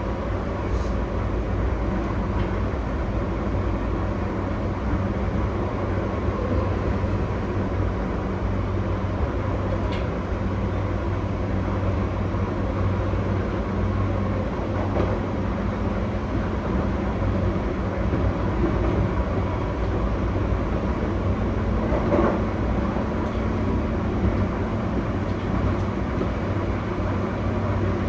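Running noise heard inside a JR E235-1000 series electric commuter train travelling at steady speed between stations: a continuous low rumble of wheels on rail with a faint steady tone above it and a few light ticks.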